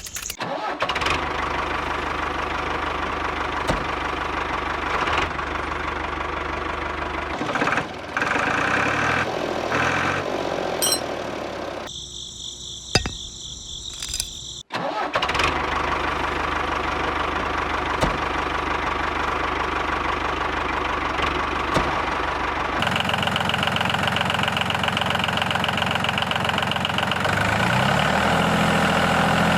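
Engine of a miniature crawler truck running steadily at idle. It cuts out for a couple of seconds about halfway through.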